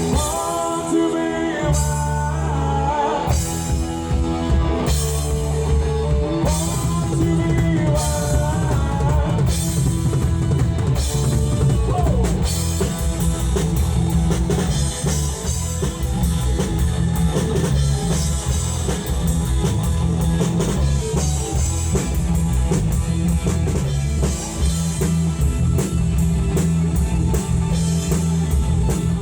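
Live rock band playing amplified through the PA: drum kit, bass and electric guitar, with sung vocals over roughly the first half.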